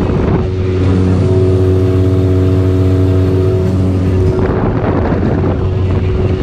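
Boat's outboard motor running steadily at cruising speed, with a rush of wind and water over the microphone.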